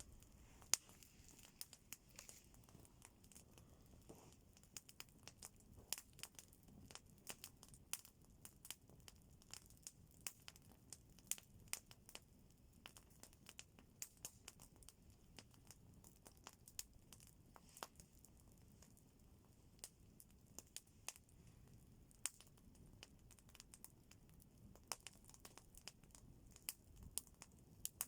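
Wood fire crackling faintly, with many irregular sharp pops and snaps.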